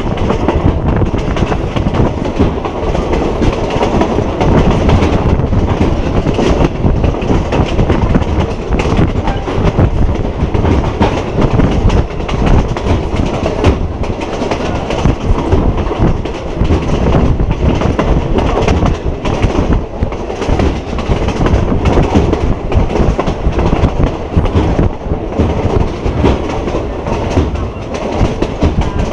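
A State Railway of Thailand passenger train running at speed, its wheels clattering steadily over the rail joints, heard loud from inside a coach at an open window.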